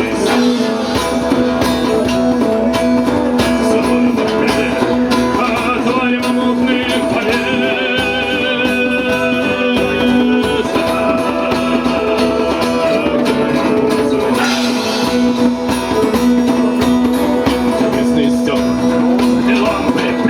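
A band playing a song, led by guitar, with sustained notes throughout and a wavering, vibrato-like melody line in the middle.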